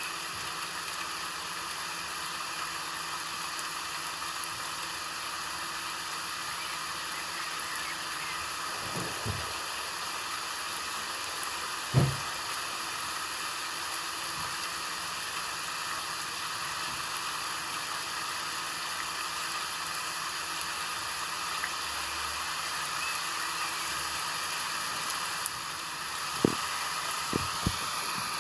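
Steady rain falling, a continuous even hiss, with a few louder dull knocks about twelve seconds in and several more near the end.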